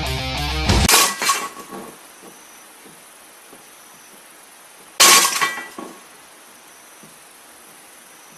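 Two sudden crashes about four seconds apart, each followed by a short ringing rattle that fades within a second, like something brittle smashing; music cuts off just before the first.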